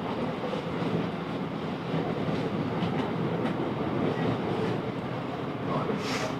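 Class 707 Desiro electric train running, heard from inside the carriage: a steady rumble of wheels on track with faint occasional clicks at the rail joints. A brief hiss comes near the end.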